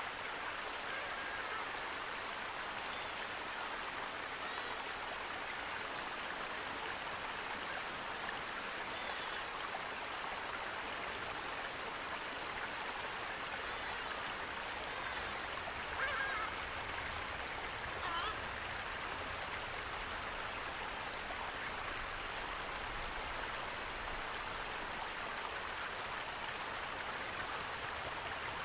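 Steady rush of running water, an even hiss with no letup. A couple of brief bird calls rise above it about halfway through.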